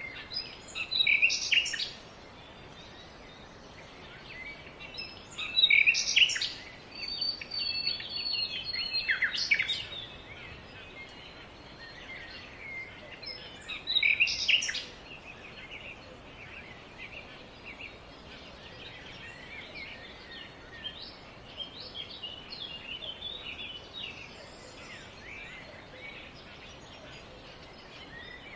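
Birds calling and chirping over a faint steady background hiss. Louder bouts of calls come about a second in, from about six to ten seconds and around fourteen seconds, with fainter chirps through the rest.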